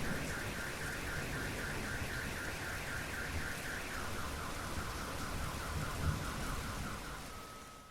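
Car alarm warbling rapidly, about five or six pulses a second, dropping to a lower warble about halfway through, over a steady hiss of rain; it stops near the end as the sound fades out.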